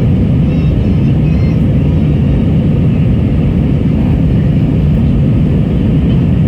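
Steady rumble of a jet airliner's engines and airflow, heard from inside the passenger cabin in flight.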